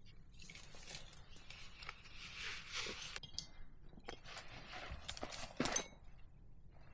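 Irregular crunching and rustling of dry forest litter, with several sharp snaps, the loudest a little before six seconds in.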